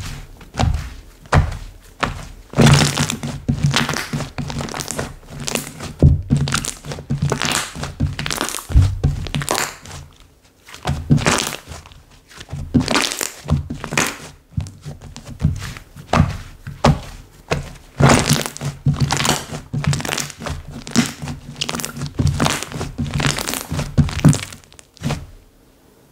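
Slime being squeezed, poked and stretched by hand, giving irregular squishy pops and clicks about once or twice a second.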